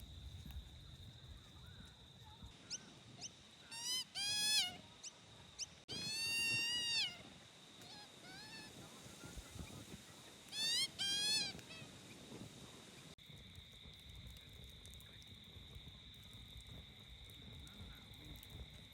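An animal calling in three loud bouts: quick runs of repeated pitched notes, and one longer call lasting about a second. Under the calls runs a steady high-pitched insect drone, and a second, lower drone joins after about thirteen seconds.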